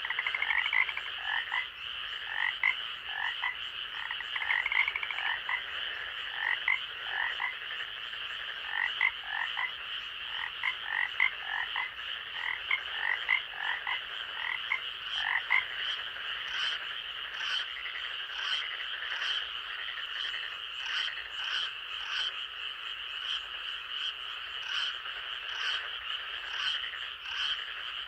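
Night forest chorus of frogs: many short croaks repeat over a steady high-pitched drone. Lower croaks fill the first half, and higher, shorter calls take over from about halfway.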